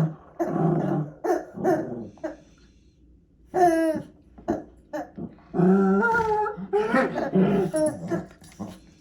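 Pomeranian puppies growling and whining in short bouts, with one high, wavering whine about three and a half seconds in and a longer run of growls near the end.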